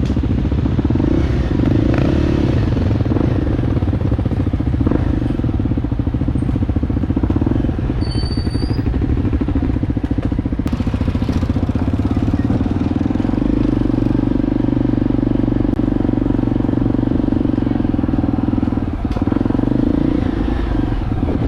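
Motorcycle engine running steadily under way, a continuous low drone that holds level throughout.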